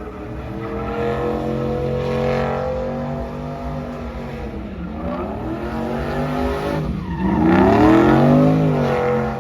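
Truck engines running, one holding a steady idle while another is revved: its pitch drops and climbs again twice. The loudest rev swells near the end, then falls back.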